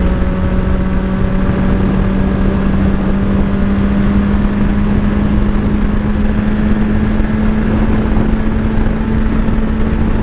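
Motorcycle engine running steadily while riding, its pitch creeping slowly upward as the revs rise, over a steady rush of low noise.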